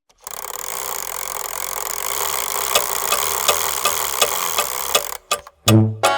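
Clockwork sound effect: a steady mechanical whirr with a regular tick about two to three times a second, like a clock mechanism running. It stops about a second before the end, when the music of a children's song begins.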